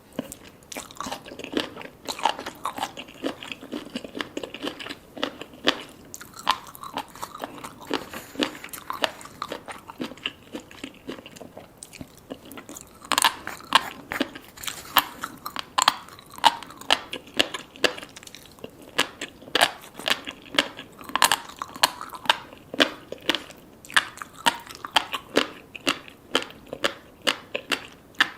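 Close-miked chewing of raw salmon sashimi with tobiko roe and sea grapes: wet mouth sounds with many small crisp pops and crunches, coming thicker and faster about halfway through.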